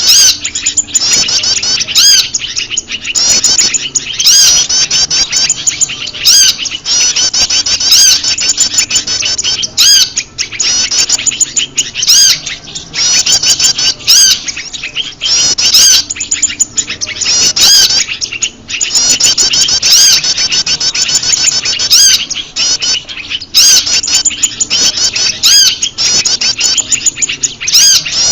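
Bird-lure recording of prenjak lumut calls mixed with a chorus of other small birds: continuous fast, high chirping and twittering, with sharp clicks every second or two.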